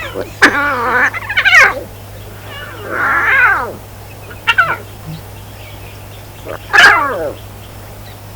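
Domestic cat meowing several times, each meow sliding down in pitch, over a steady low hum.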